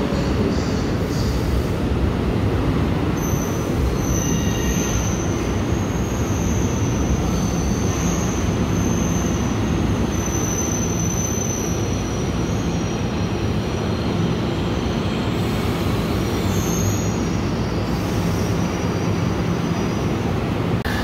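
NJ Transit commuter train pulling in along the platform with a steady rumble, and a high, thin metallic squeal from the wheels from about three seconds in until about halfway.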